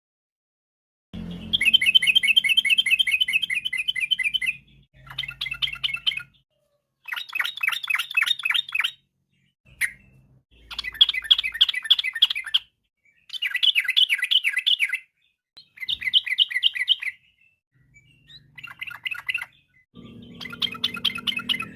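Sooty-headed bulbul singing: a run of fast trilled phrases, each one to three seconds long, separated by short pauses.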